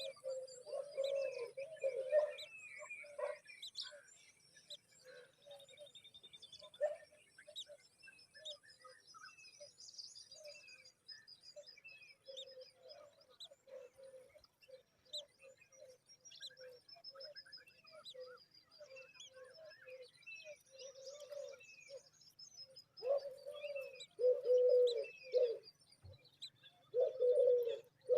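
Several birds calling. A low call repeats in short runs and is loudest in bursts near the end, while higher chirps and trills come throughout.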